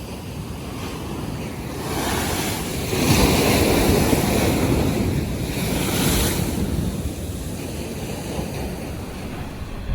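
North Sea waves surging and washing, with wind buffeting the microphone. The surf swells loudest about three seconds in and again around six seconds.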